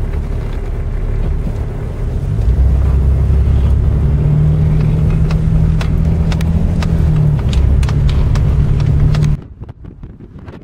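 Four-wheel-drive Jeep driving, heard from inside the cabin: a steady engine and road hum that grows louder about two seconds in, with scattered light clicks. Near the end it cuts off abruptly and a quieter noise follows.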